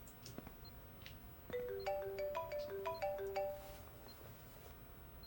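Mobile phone ringing: a marimba-like ringtone melody of quick, clear notes starts about a second and a half in and stops about two seconds later, when the call is picked up.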